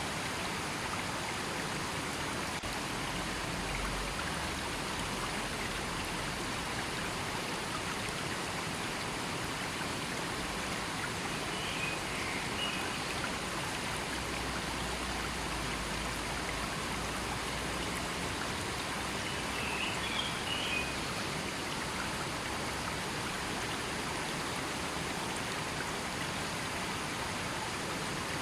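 A river running steadily, a continuous even rush of flowing water. A few faint, short high chirps come through twice, about a third and about two thirds of the way in.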